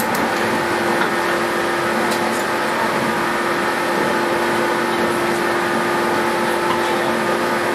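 JR 117 series electric train heard from inside the carriage, its traction motors and gearing humming with steady, unchanging tones over the running noise as it travels at a constant speed.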